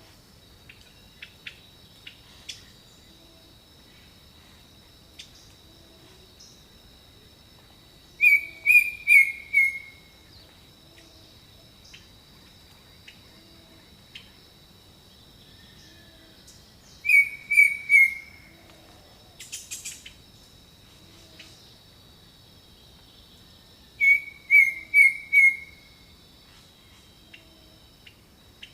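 Jungle birdsong: a bird sings a phrase of four or five quick notes, each dropping slightly in pitch, three times about eight seconds apart, among scattered short chirps. Underneath runs a steady high insect drone and a soft low call repeating about every two seconds.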